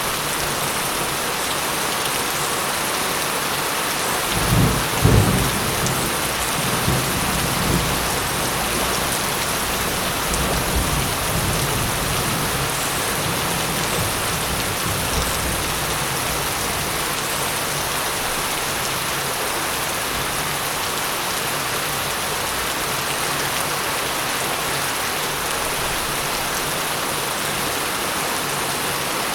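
Steady heavy rain with a thunderclap about four seconds in that rolls on as a fading low rumble for roughly ten seconds.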